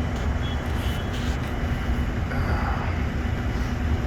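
Wind buffeting the microphone, a steady low rumble, over a steady machine hum.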